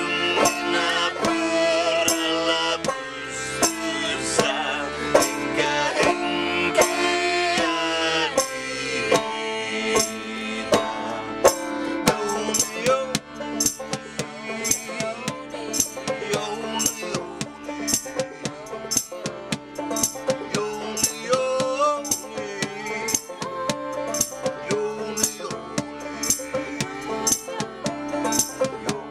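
Clawhammer banjo and accordion playing a Finnish folk song live. From about halfway through, a rattling percussion beat comes in at about two strokes a second.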